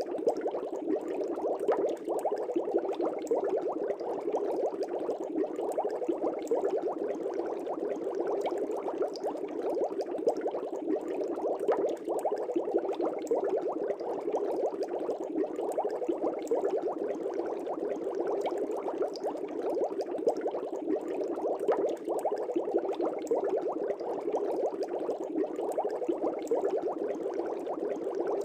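Air bubbles streaming steadily in a fish tank: a dense, even bubbling made of many small pops.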